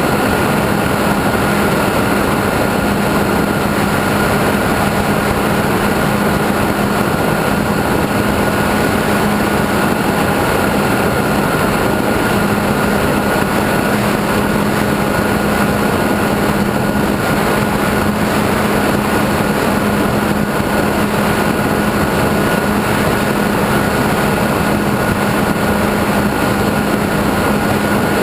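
RC airplane's motor and propeller running at a steady throttle in flight, heard from on board as a constant drone with a steady whine over rushing wind.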